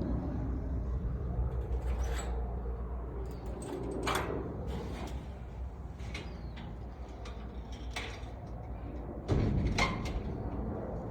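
Outdoor ambience with a steady low wind rumble on the microphone and a few short, sharp bird calls scattered through it. A louder dull bump comes about nine seconds in.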